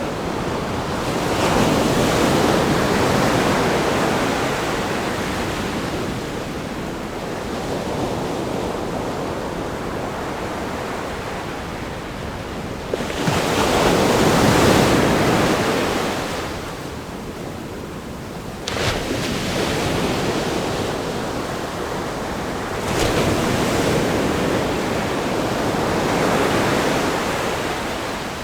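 Ocean waves breaking and crashing against a rock groin, with continuous surf between them. Three big surges build and fall away, a little after the start, around the middle and near the end, with a sharp splash against the rocks shortly after the middle.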